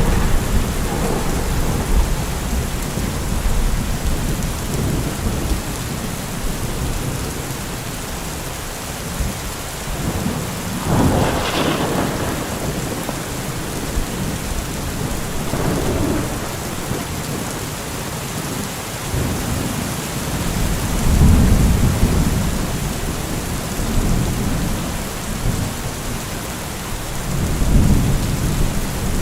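Thunderstorm: steady heavy rain with rolling thunder, a sharper crack of thunder about eleven seconds in and deep rumbles swelling again later.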